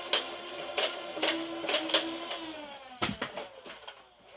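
Motorized flywheel foam-dart blaster firing: sharp shots about every half second over the whine of its spinning flywheel motors. The whine slides down in pitch from about two seconds in as the flywheels spin down.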